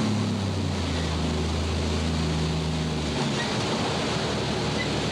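Hurricane-force wind and surf as a steady rush of noise, with wind buffeting the microphone. A low, steady hum sounds alongside and stops about three seconds in.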